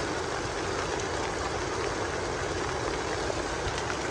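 Heavy rain falling: a steady, dense hiss with no break.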